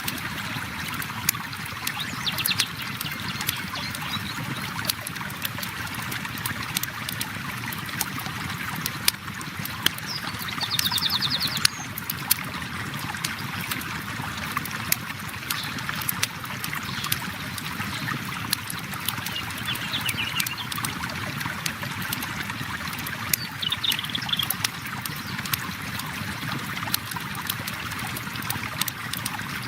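River water flowing steadily, with a campfire crackling and popping in sharp irregular snaps. A few short, high trills come in now and then, the longest a rapid run of notes about ten seconds in.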